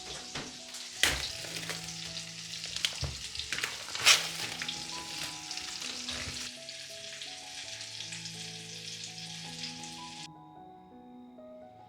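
Food sizzling in a frying pan, with a few sharp knocks of a utensil stirring against the pan in the first four seconds. The sizzle cuts off suddenly about ten seconds in, leaving soft background music.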